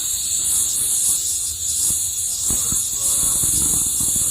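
Steady high hiss like a gas torch, with a few light knocks from about two and a half seconds in.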